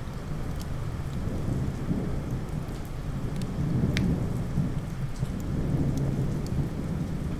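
Steady rain with a low rolling rumble of thunder that swells around the middle, and scattered sharp crackles, one louder snap about halfway through.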